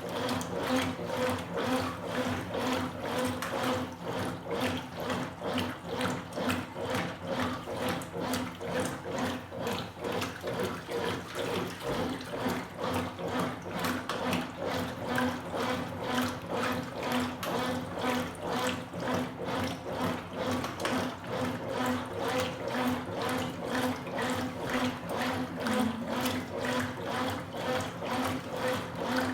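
Consul Super Cargo 8 kg top-load washing machine agitating a load of towels in water: an even swish-swish of the agitator, about two strokes a second, over a steady motor hum.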